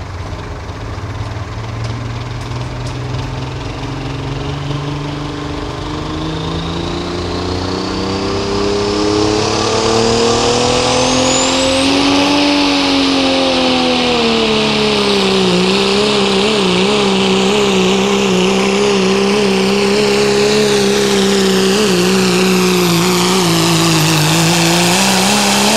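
A pro street diesel pickup pulling a sled at full throttle. The engine revs climb for about twelve seconds with a rising turbo whistle, then hold steady under load, and fall away sharply at the end as the driver lets off.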